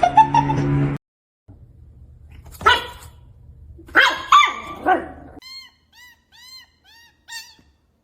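A dog barking and yelping a few times, then a run of about six short, identical high chirps in quick succession.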